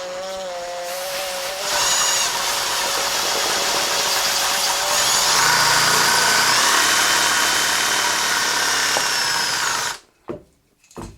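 A handheld power tool running for about ten seconds: it gets louder and higher about two seconds in, changes pitch around the middle, and stops suddenly near the end.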